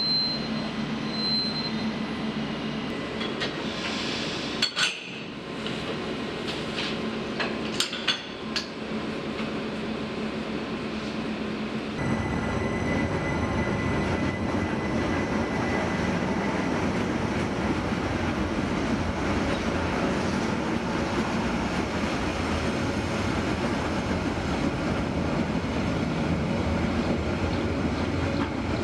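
A Rhaetian Railway train at a platform: at first a steady hum with a few metallic clinks, then, about twelve seconds in, a louder, even rumble and clatter of wheels on rail as the train, passenger cars followed by tank-container wagons, rolls slowly past.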